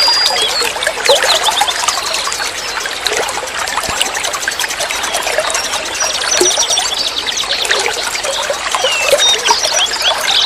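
Water trickling and flowing steadily, with many small birds chirping and trilling over it throughout.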